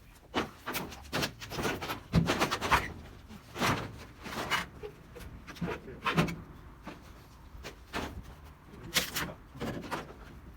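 Corrugated tin roofing sheets being pulled apart and handled: irregular knocks, clatters and scrapes of sheet metal, the loudest about two seconds in and again near the end.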